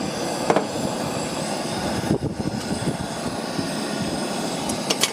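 Gas camp stove burner running with a steady rushing hiss, heating water for coffee. There is a light click about half a second in and another near the end.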